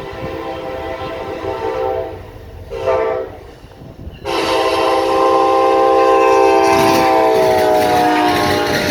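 Diesel locomotive air horn on a CSX train sounding a multi-note chord: a blast, a brief short toot about three seconds in, then a long loud blast whose pitch sags slightly near the end, over the low rumble of the passing train.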